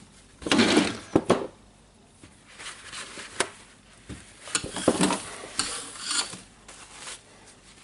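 Irregular clicks, knocks and short scrapes of small metal and plastic parts being handled as a jigsaw motor is taken apart, the loudest scrape about half a second in.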